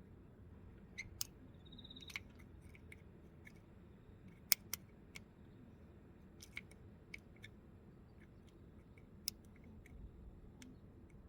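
A dozen or so light, scattered clicks and taps at irregular intervals, the sharpest about halfway through, over a faint low hum, with one brief high tone just before two seconds in.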